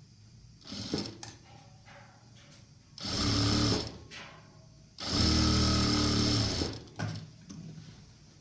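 Sewing machine stitching in two short runs, the first under a second and the second about a second and a half long, with a small knock before them.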